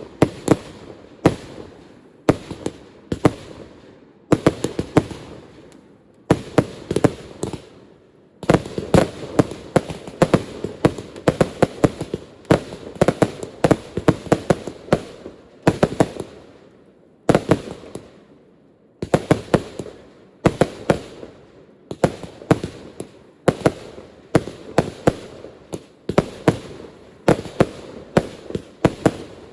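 Fireworks display: sharp bangs of bursting shells coming in rapid volleys, several a second, with brief lulls between the clusters.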